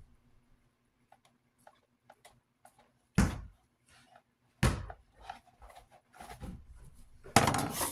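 Things being handled on a work surface: scattered light clicks and two sharp knocks about a second and a half apart, then a louder stretch of rustling and knocking near the end.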